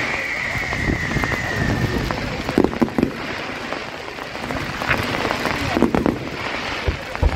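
Fireworks going off close by. A high hiss dies away over the first two seconds, then come scattered bangs and crackling, about four bursts, over a crowd's background noise.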